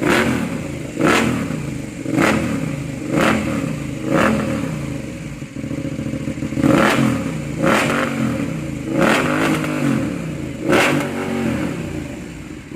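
Aprilia Dorsoduro 1200's V-twin engine through an aftermarket SC Project exhaust, revved in a series of sharp throttle blips about once a second. Each blip rises and falls back to idle, with a pause of about two seconds midway.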